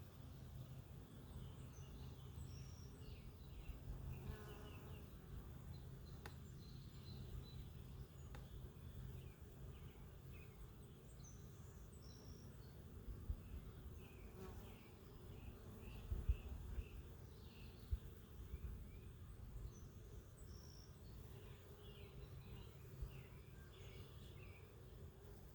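Honeybees buzzing around a hive in a faint, steady hum, with scattered short high chirps and a few soft knocks.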